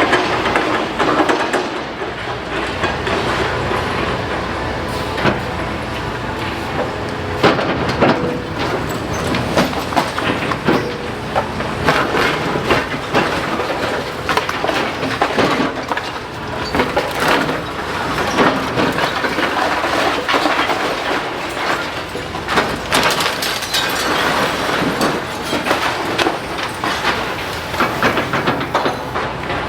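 Demolition excavator at work: a steady engine with frequent knocks, crunches and clatter of breaking masonry and debris.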